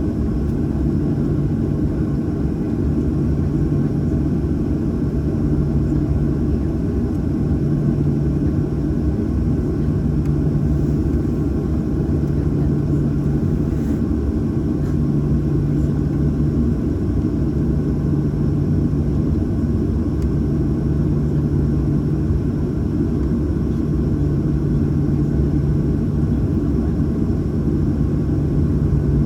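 Cabin noise of a Boeing 737-800 on the ground before takeoff: its CFM56-7B engines at idle give a steady low rumble. A low hum swells and fades every couple of seconds.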